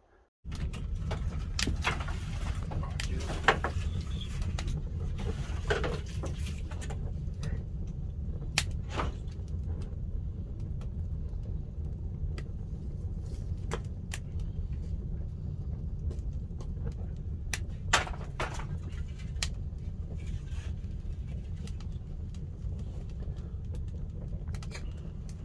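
Pine firewood burning in a wood-fired kiln: a steady low rumble of the fire with scattered sharp crackles and pops, starting abruptly about half a second in.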